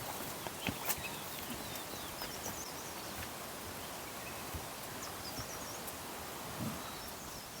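Outdoor ambience: a steady hiss with a small bird's brief high chirping calls, heard about three times, and a few faint soft knocks.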